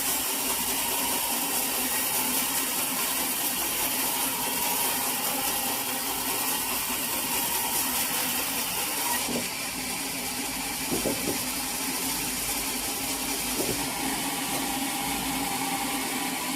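Sawmill machinery running steadily with a constant engine-like hum. About nine seconds in the sound changes slightly, and a few short knocks follow.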